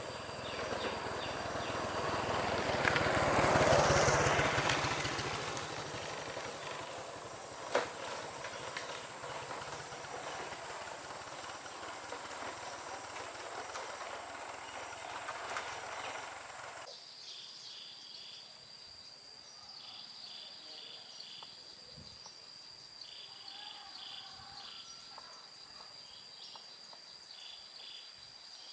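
A vehicle passes by, its sound swelling to a peak about four seconds in and then fading, with a sharp knock near eight seconds. Partway through, the sound changes abruptly to quieter outdoor ambience with a steady high-pitched whine and pulsing chirps.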